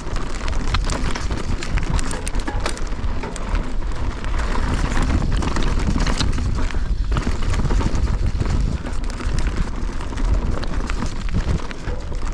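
Wind buffeting a GoPro's microphone as a mountain bike descends a rough trail at speed, with a steady low rumble of tyres and ground and frequent sharp rattles and clacks from the bike.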